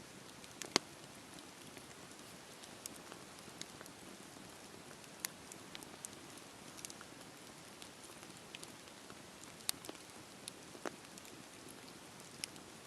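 Campfire burning: a soft steady hiss with irregular sharp crackles and pops, the loudest pop a little under a second in.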